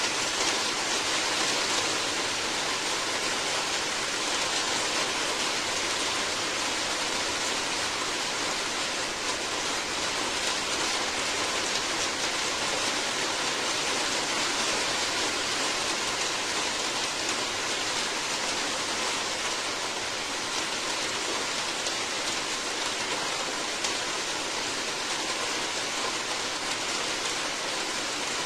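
Steady, heavy rain falling, a constant dense hiss of drops without letting up.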